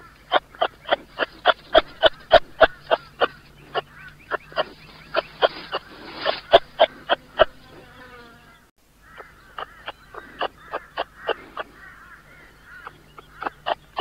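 A rapid series of short, sharp animal calls, about three a second, breaking off for a second or so past the middle and then resuming more unevenly.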